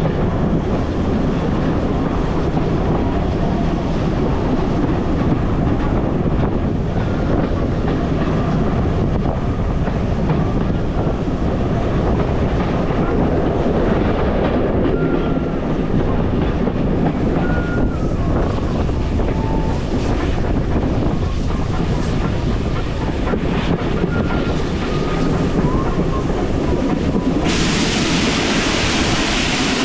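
Heritage train running along the rails: a steady rumble of wheels on track. From about halfway, short faint wheel squeals come and go, and near the end a louder hiss rises suddenly.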